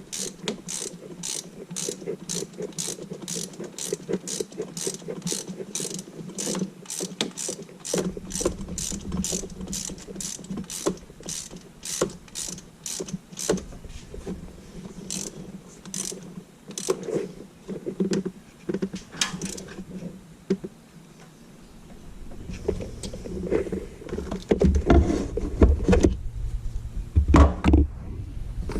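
Ratchet wrench clicking in quick, even strokes, about three clicks a second, turning a spark plug on a Silverado's 4.8L Vortec V8. The clicking slows and turns sparse about halfway through. Louder knocks and handling noises take over near the end.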